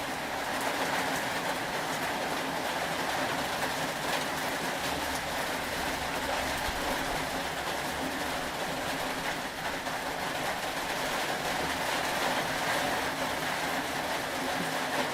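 Steady rain as an even, unbroken hiss, with a low rumble in the middle for a few seconds.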